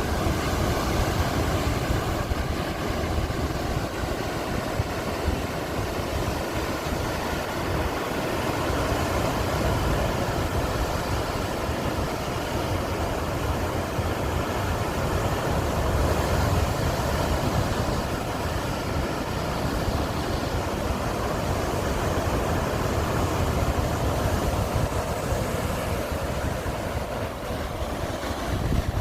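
Sea waves washing in a steady rush of surf, with wind buffeting the microphone in a low rumble.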